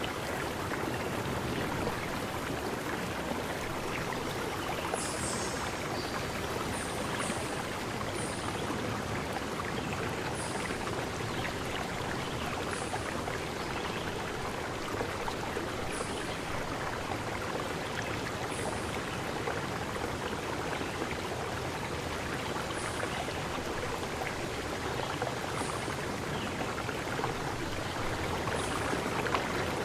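Forest river stream rushing and splashing steadily. Over it, a bird gives short, very high, thin calls every second or two, about a dozen in all.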